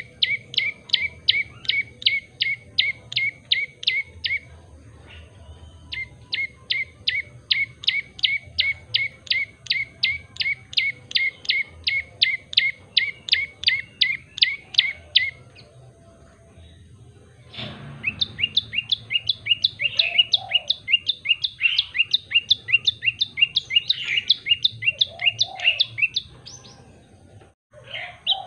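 Tailorbird (prenjak lumut) singing: long runs of sharp, evenly repeated chip notes, about three a second. The runs break off twice for a second or two. After the second break a quicker, higher, more varied series follows.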